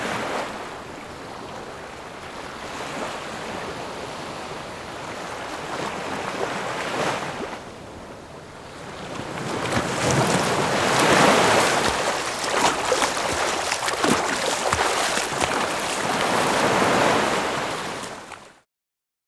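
Ocean surf: waves washing in, swelling and easing in surges, loudest in the second half, then cut off suddenly near the end.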